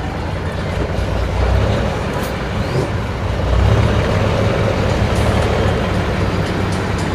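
Big-engined off-road mud truck running hard under load, its note swelling a couple of times.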